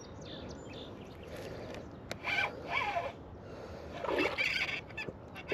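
Bird calls: two short groups of pitched calls, about two seconds and four seconds in, over a quiet outdoor background.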